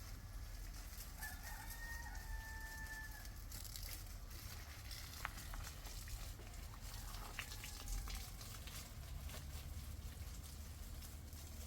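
A rooster crowing once, a single long held call about a second in, with another crow starting near the end. A few sharp clicks are heard, over a steady low rumble.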